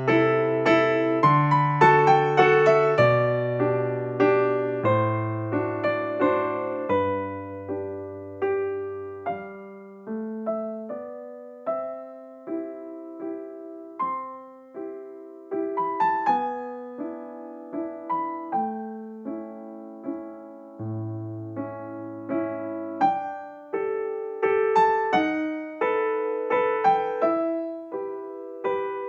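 Background music: a gentle tune on electric piano, single notes and chords over a slow bass line.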